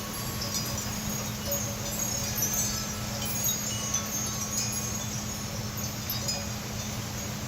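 Steady hard rain with many brief, high ringing tones of wind chimes scattered through it.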